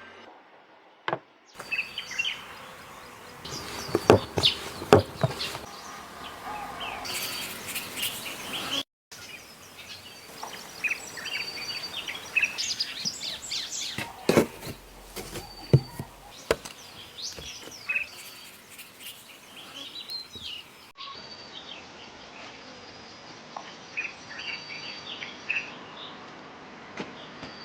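Ambient sound with birds chirping and insects, broken by scattered sharp clicks and knocks, in several abruptly cut segments.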